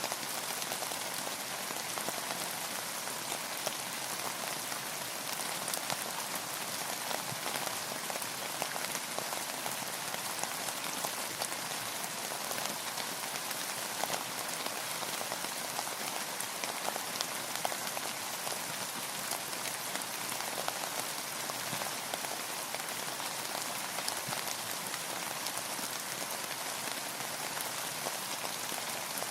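Steady rain falling, with many individual drops pattering on a surface; it holds an even level without a break.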